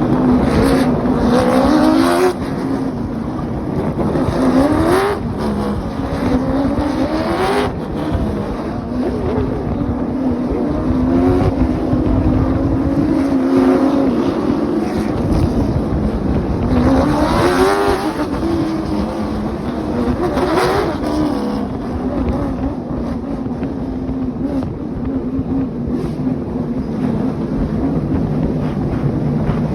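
Pace car and late model stock cars running at pace-lap speed: a steady engine drone broken by several quick rising revs in bursts.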